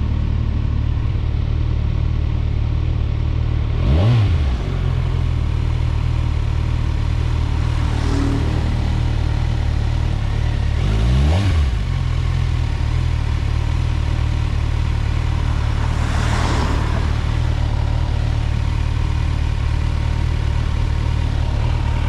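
Kawasaki Ninja 1000SX inline-four engine idling steadily, with two short throttle blips about four and eleven seconds in. A brief rushing noise sounds about sixteen seconds in.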